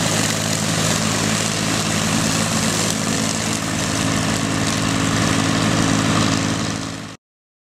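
Tractor engine running steadily, topping a paddock, with a broad hiss over the engine note. It cuts off suddenly about seven seconds in.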